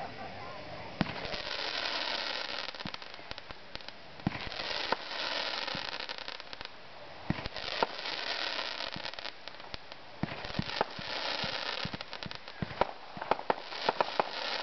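Consumer fireworks being set off: sharp bangs from shells bursting, between stretches of hissing, with a fast run of crackling pops near the end.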